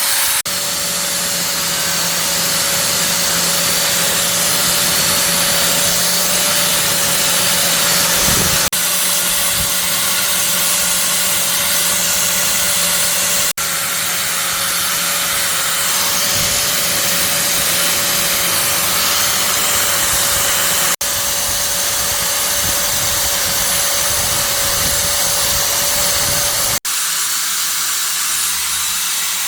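A power tool running steadily with a constant hum under a rough rubbing noise, as when working on metal motorbike parts. It comes in several stretches, each broken off abruptly.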